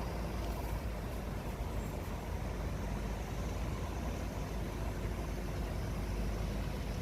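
A car engine running steadily as the loaded vehicle drives along, a continuous low rumble with no sharp events.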